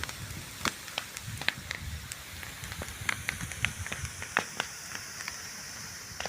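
Bonfire of dry angico firewood crackling: irregular sharp pops over a steady hiss.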